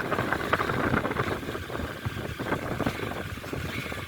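Honda CB200X motorcycle running while being ridden, its engine under a steady noisy rush, with many irregular knocks and rattles.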